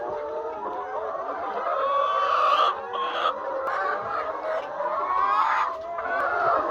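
A large flock of laying hens in a poultry house, many birds clucking and calling at once in a dense, continuous chorus.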